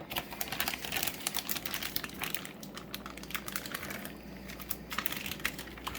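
Raw chicken pieces being put into a bowl of seasoned batter and handled, making a quick, irregular string of small clicks and knocks.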